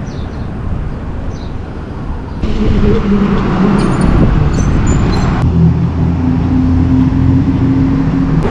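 Road traffic noise with the steady hum of vehicle engines, growing louder about two and a half seconds in.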